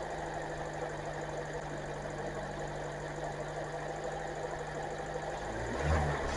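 The 2025 Kia K4's petrol engine idling steadily, heard under the open hood, with the light ticking of its fuel injectors: a baseline recording of a new engine before Seafoam is added. A louder low bump comes near the end.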